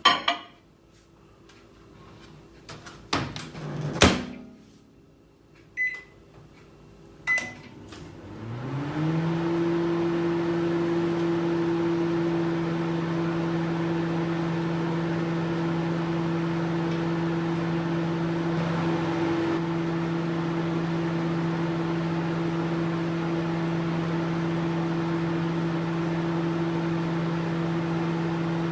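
A few clicks and a loud clunk, then two short beeps, and a microwave oven starts up: its hum rises briefly in pitch and settles into a steady drone.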